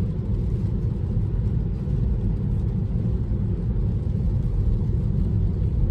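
Steady low road rumble inside an electric car's cabin, with no engine sound: the tyres are running on wet pavement.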